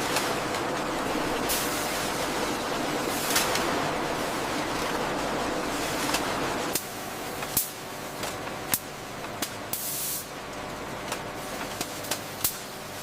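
Processing-line machinery noise: a steady spraying hiss that drops to a quieter hum about seven seconds in, with scattered sharp clicks and clinks.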